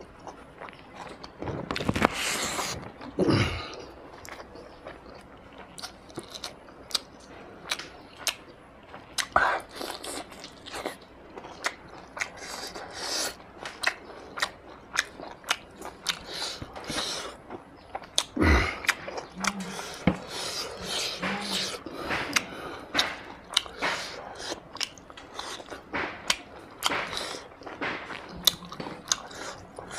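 Close-miked mouth sounds of a person chewing mutton curry and rice eaten by hand: wet chewing and lip smacks as a steady run of small clicks, with a few louder bursts about two seconds in and again past the halfway mark.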